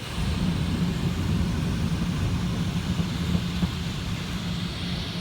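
Touchless car wash machinery starting up suddenly and then running steadily, heard from inside the car: a low pump-motor hum under the hiss of high-pressure water.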